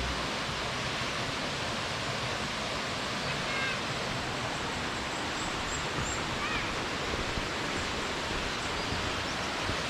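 Steady rushing of falling water from a mountain waterfall, with a few faint bird chirps above it.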